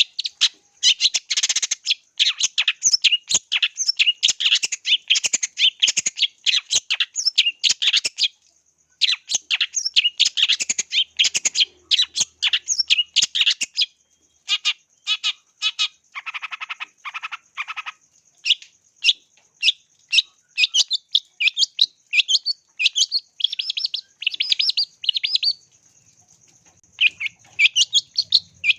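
Long-tailed shrike (cendet) singing in fast runs of sharp, chattering high notes with brief pauses, with a lower, harsher phrase about halfway through.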